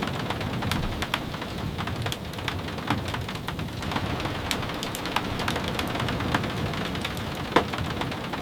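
Steady rain mixed with a crackling wood fire: a constant rushing hiss and low rumble, broken by irregular sharp pops and crackles, one louder pop near the end.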